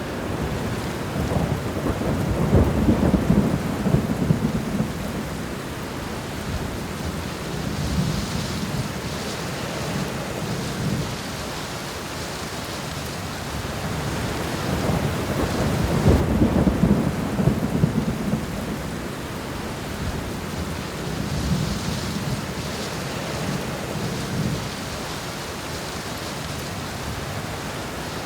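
Heavy rain falling steadily, with low rolling thunder that swells and dies away three times: a few seconds in, loudest around the middle, and again later.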